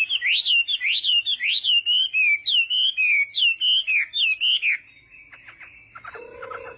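Chinese hwamei singing a rapid run of loud, swooping whistled notes, about two a second, that breaks off about two-thirds of the way through, leaving only faint clicks.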